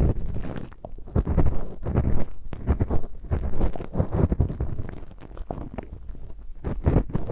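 Close-miked ASMR ear cleaning: an ear pick scraping and rubbing against the microphone's ear in repeated, irregular scratchy strokes with a deep rumbling crunch.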